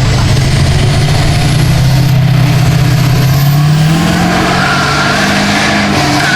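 Mega truck engine running hard under load, its pitch climbing steadily for about four seconds and then holding, with a thin high whine rising alongside.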